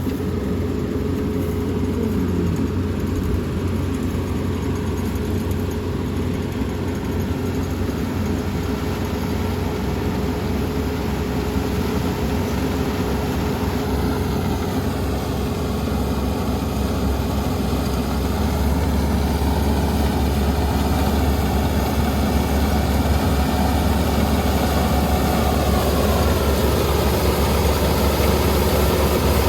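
Kubota ER470 combine harvester's diesel engine running steadily as it works a rice field, a constant drone that deepens and grows a little louder in the second half.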